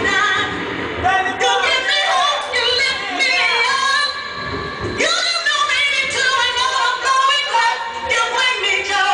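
A woman singing a song, with music.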